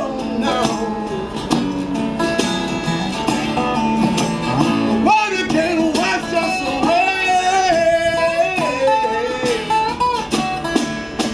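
Live acoustic music: acoustic guitar playing with singing in long, wavering held notes.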